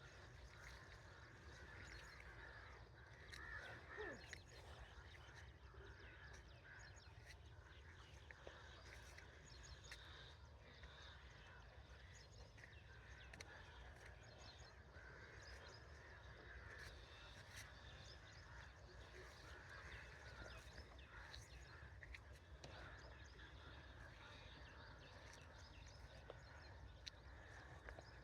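Faint rural outdoor ambience with scattered bird calls and chirps over a low steady rumble.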